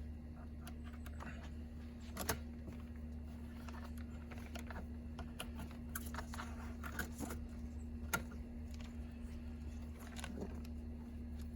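Hands handling the seat belt latch's wiring and plastic trim: scattered light clicks, taps and rustles, with a sharper knock about two seconds in and another about eight seconds in, over a steady low hum.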